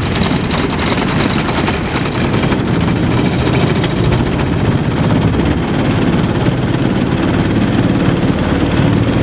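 A 6.5 hp Predator single-cylinder engine on a mud motor, running steadily at a high, even throttle.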